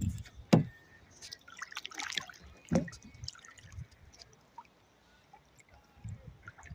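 Water dripping and trickling off a kayak paddle and splashing lightly as it dips, with two sharp knocks, about half a second in and near the middle.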